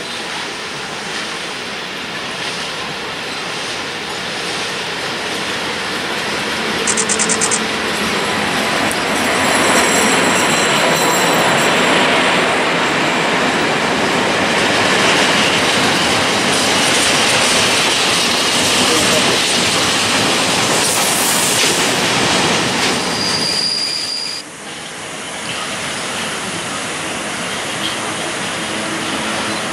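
PKP Cargo ET22 electric locomotive and a long train of loaded open coal wagons passing, getting louder over the first ten seconds as the wagons' wheels clatter over the rail joints, with a brief high wheel squeal near the end of the pass. It breaks off suddenly about 24 seconds in, and a second ET22-hauled freight train is heard approaching.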